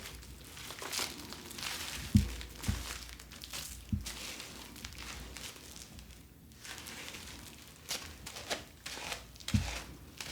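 Packaging being handled and crinkled in an irregular rustle, with a few soft knocks along the way.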